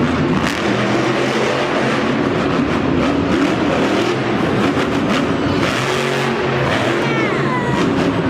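Monster truck engine running loud, revving up and down in steps.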